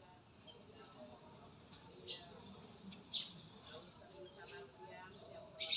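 Murai (white-rumped shama) singing: a fast, varied string of high whistled notes, many sliding downward, with a louder note near the end.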